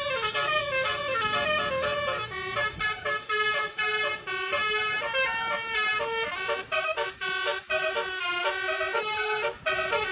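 Horn-like pitched tones sounding a quick run of changing notes, like a tune, with sharp rhythmic attacks.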